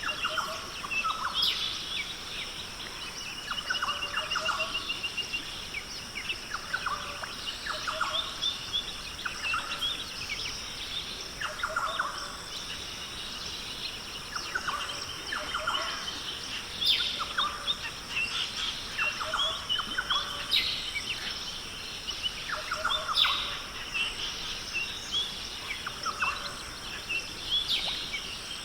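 Australian rainforest birds calling: several birds repeat short calls again and again, some of them sweeping down in pitch, with a fast trill now and then. A steady high-pitched drone runs underneath.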